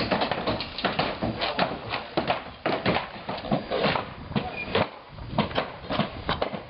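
Demolition work: a rapid, irregular run of knocks and clatter, several strikes a second, as material is broken and falls.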